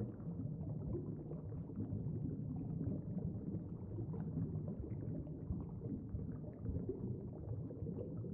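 Underwater bubbling sound effect: a steady, low bubbling of water with small irregular pops throughout.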